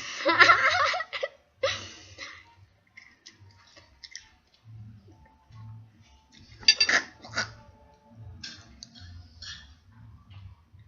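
A girl's short whimpering vocal sound, then scattered clinks of cutlery on a plate and mouth noises as she chews a piece of boiled onion and struggles to swallow it.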